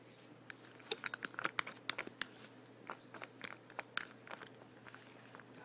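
Spoon stirring a moistened mix of oats, grains and pellets in a bowl: a rapid, irregular run of crunchy clicks and crackles, densest in the first half.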